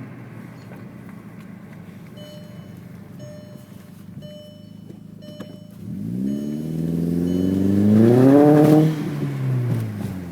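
Exhaust note of a 2004 Jetta GLI with a 3-inch 42 Draft Designs turbo-back exhaust, heard from inside the cabin. The engine idles steadily, then is revved once: the pitch rises from about six seconds in to a peak near the end and drops back toward idle.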